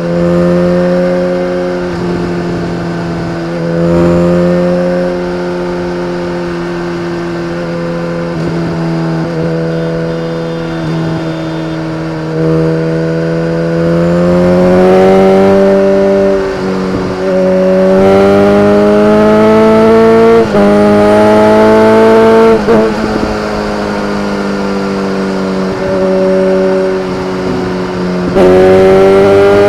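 BMW K1300R inline-four engine through an Akrapovic exhaust. It holds a steady pitch at first, then accelerates hard. The pitch rises and drops sharply at each upshift, three times in quick succession, before rising again near the end.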